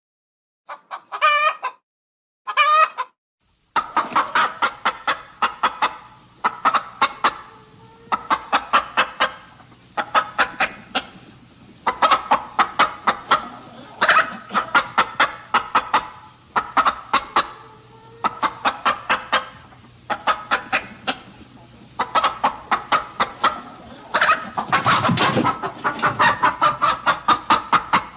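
Chickens clucking: a few short calls, then repeated runs of rapid, sharp clucks every second or two, with a louder call near the end.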